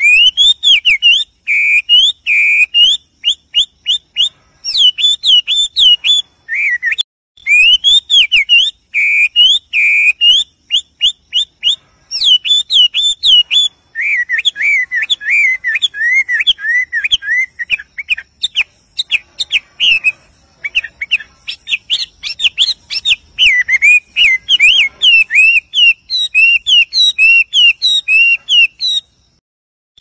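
Small birds whistling and chirping: quick runs of high notes sweeping up and down, broken by short pauses.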